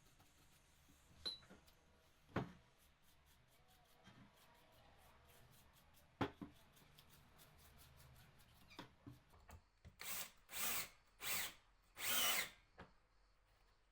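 Power drill run in four short bursts in quick succession, after a few scattered knocks earlier on.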